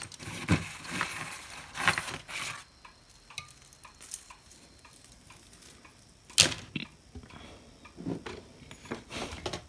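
Hands handling a hot air gun's handpiece and wires on a workbench: scattered small clicks and light knocks, the sharpest about six and a half seconds in.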